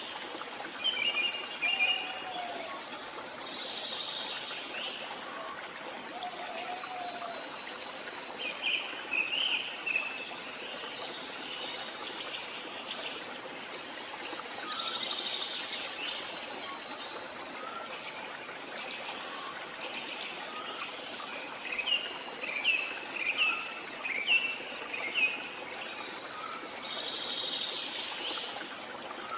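Songbirds singing short, chirping phrases, louder bursts a second in, around nine seconds and in a run near the end, over the steady rush of a running stream.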